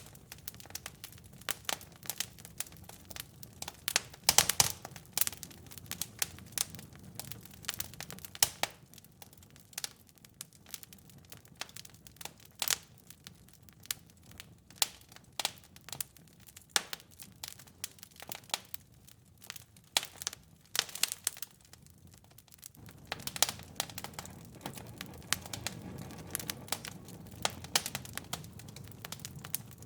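Fireplace fire crackling, with irregular sharp pops and snaps over a low rumble of the flames. The rumble thins out for a stretch in the middle and comes back about three quarters of the way through.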